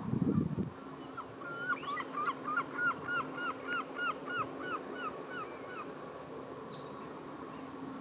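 A bird calling a rapid series of about a dozen clear, arching notes, around three a second, that slow and fade toward the end. A brief low noise, the loudest moment, comes at the very start.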